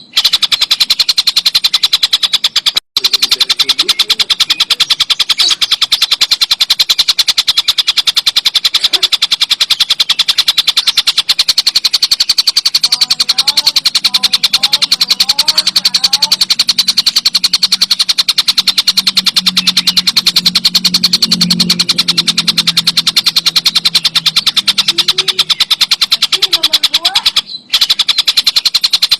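Tengkek buto kingfisher calling in a loud, very fast, continuous rattling chatter of high notes, with two brief breaks.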